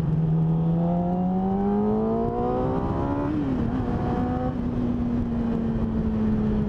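2008 Yamaha R6's inline-four engine through the stock catalytic-converter system and an SC Project slip-on muffler, pulling under acceleration with its pitch rising steadily, then shifting gear about three seconds in and running steady. The catalytic converter soaks up much of the raspiness and bass of the tone.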